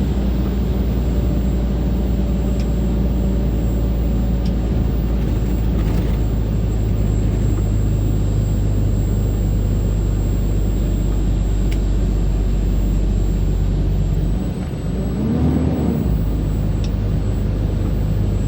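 Heavy loaded truck's diesel engine pulling steadily uphill with a low, even drone. About fifteen seconds in, it briefly dips, then rises and falls in pitch.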